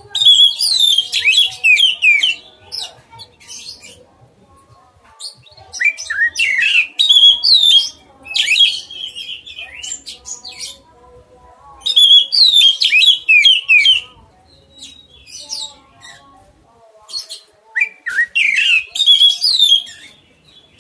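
Oriental magpie-robin (kacer) singing loud, rapid phrases of varied, sliding whistled notes in four bursts of two to three seconds each, separated by short pauses.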